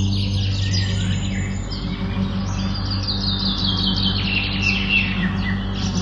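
Several wild songbirds singing and chirping at once, with one bird's quick run of notes stepping down in pitch about three to five seconds in. A steady low hum runs underneath.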